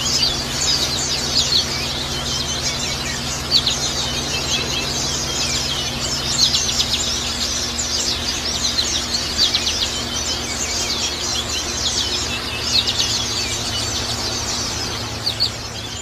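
White-eyes (pleci) twittering in a fast, continuous run of high chirps, over a steady trickle of water and a low hum.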